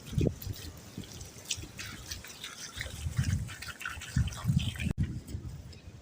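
Campfire embers crackling and fizzing with many small irregular pops, with a few dull low thumps.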